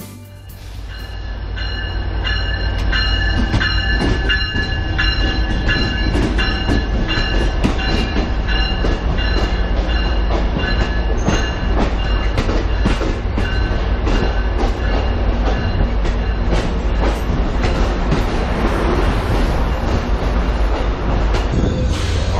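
Amtrak passenger train moving through the station: a steady low rumble with many sharp clacks of wheels over rail joints. A high, steady wheel squeal is heard during the first half.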